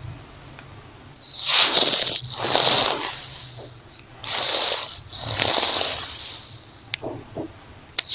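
A hair tie rubbing and scratching over an earphone's microphone in close-up: about four long, rough swishing strokes, then a few quick small scratches near the end.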